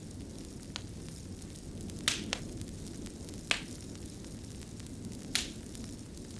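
Wood fire burning with a steady low rumble, with sharp crackles and pops from the burning wood: a faint one near the start, a quick pair about two seconds in, and single pops at about three and a half and five and a half seconds.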